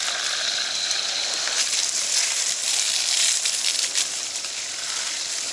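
Fire hose spraying water at low pressure onto burning forest ground: a steady hiss with scattered crackles.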